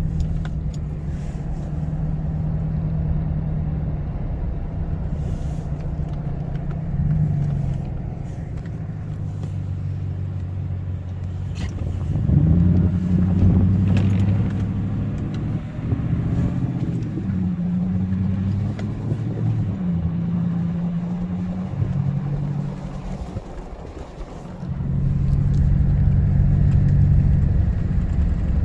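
A motor vehicle's engine running, its low note shifting up and down as it speeds up and slows. There is a rise about twelve seconds in and a dip a little before the end.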